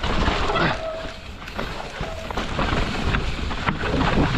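Mountain bike descending a rough, rocky trail: tyres running over rocks and dirt with frequent knocks and rattles from the bike, and wind buffeting the microphone.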